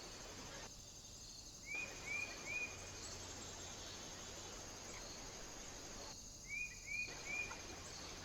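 A steady, high, pulsing insect trill, broken twice by a quick series of three short, sharp bird chirps.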